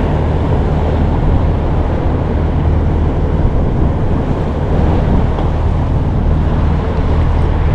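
Steady wind rushing over the microphone on a small fishing boat, with a constant low hum underneath.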